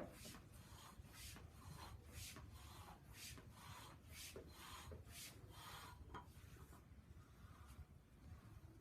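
Faint rasping strokes of a knife cutting through the edge of foam-backed vinyl sheet flooring, about two a second, stopping a couple of seconds before the end.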